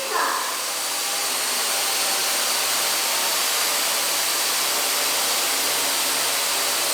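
Small electric motor and rotor blades of a toy remote-control helicopter whirring steadily in flight.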